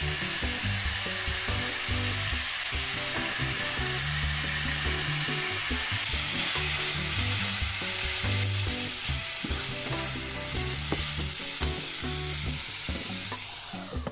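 Minced meat and diced onion sizzling steadily in a nonstick frying pan, with a plastic spatula scraping and stirring through the mince. Soft background music runs underneath.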